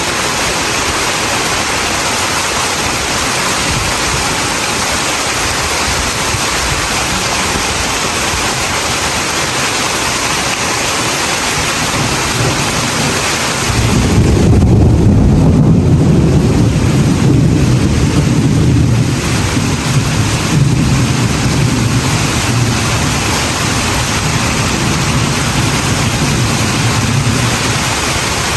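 Steady hiss of heavy rain. About halfway in a deep rumble of thunder starts suddenly, is loudest for a few seconds, then slowly dies away near the end.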